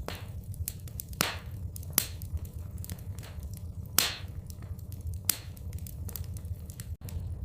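Wood fire in a fireplace crackling, with irregular sharp pops, a few louder than the rest, over a steady low rumble. The sound cuts out for an instant near the end.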